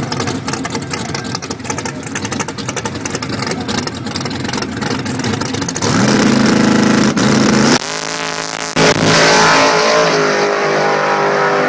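Small-block Chevy V8 in a 1968 Camaro drag car running with a choppy, uneven beat at the line, then launching at full throttle about six seconds in. The sound breaks briefly near eight and nine seconds as it shifts, and it pulls hard down the strip.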